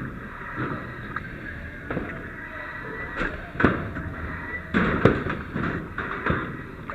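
Irregular knocks and bangs, a few of them sharp and loud, the loudest about three and a half and five seconds in, over a steady rumbling background.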